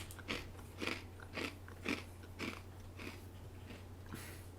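A person chewing a mouthful of crunchy basil-pesto mini breadsticks, like croutons: a crunch about every half second, thinning out after about three seconds. A steady low electrical hum runs underneath.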